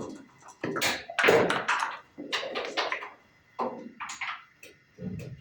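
Backgammon being played: a string of irregular clacks and rattles as dice are shaken and thrown and checkers are moved on the board.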